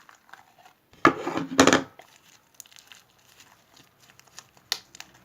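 Homemade slime and its plastic container being handled, with two loud handling noises about a second in and a sharp click near the end.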